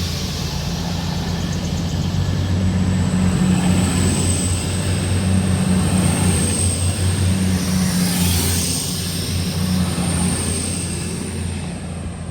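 Class 222 diesel-electric multiple unit pulling away past the platform, its underfloor diesel engines running under power with a low, pulsing engine note and a steady high whine over it.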